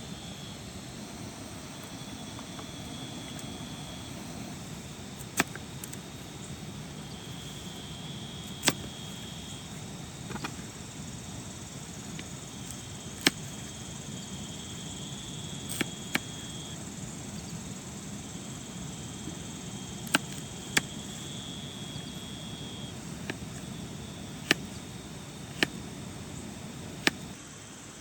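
Steady rain falling, with about ten heavy drops striking the tent or tarp as sharp single taps, a few seconds apart. A high, steady insect trill comes and goes every few seconds.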